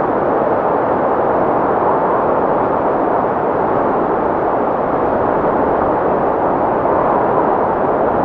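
Wind sound effect: a steady wind blowing with an even level throughout, without gusts or whistling.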